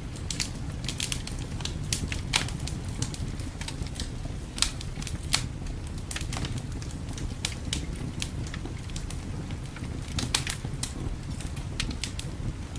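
Fire crackling in a fireplace: irregular sharp pops and snaps, several a second with a few louder ones, over a steady low rumble.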